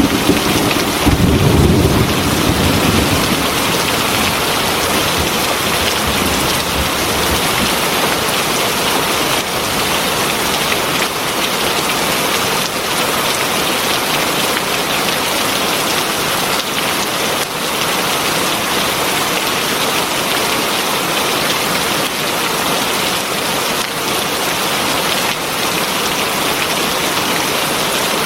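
Heavy rain falling steadily, with a low rumble of thunder that fades out in the first few seconds.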